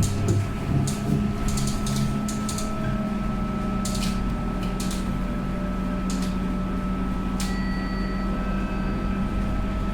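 Scania K230UB bus engine heard from inside the cabin, running steadily, with scattered rattles and clicks from the bus interior. About seven and a half seconds in, a brief high electronic tone sounds.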